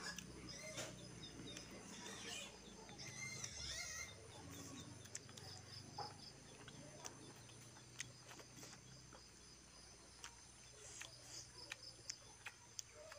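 Faint eating sounds: two people chewing and lip-smacking as they eat by hand, with scattered small clicks. Birds chirp in the background during the first few seconds.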